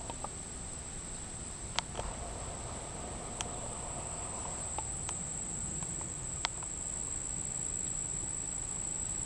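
An unidentified insect holding a continuous high-pitched monotone, one steady pitch without a break. A few sharp clicks cut in about two, three and a half, and six and a half seconds in.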